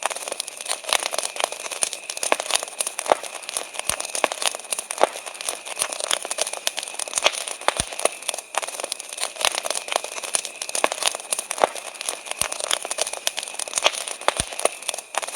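Wood campfire crackling, with frequent irregular sharp pops and snaps, over a steady high chirring of crickets.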